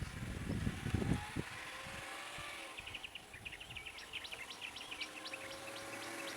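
Outdoor ambience with a bird giving a rapid series of short high chirps, about five a second, from a little under halfway in. A few low thumps come near the start.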